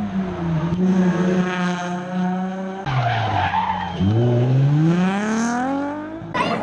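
Nissan 350Z rally car's V6 engine held at high revs, then, after an abrupt change, the revs dip and climb steadily as the car accelerates through a gear, with tyres skidding on the stage surface.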